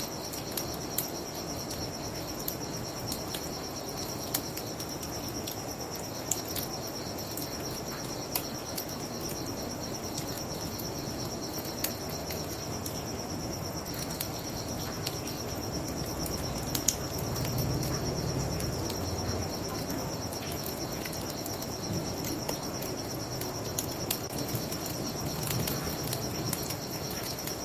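Wood fire crackling with scattered sharp pops, over the steady high chirring of crickets and a low, even rushing noise beneath.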